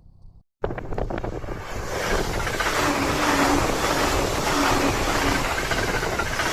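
255-series electric train passing close by. The sound cuts in suddenly about half a second in with a quick run of clatters, then builds over the next second into a steady loud rush of wheels on rail.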